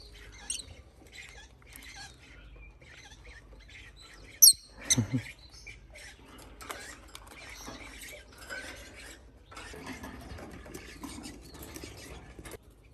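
Baby parrots scratching and shuffling about, with faint high squeaks and chirps. The loudest moment is a sharp rising squeak about four and a half seconds in, followed at once by a lower, louder noise.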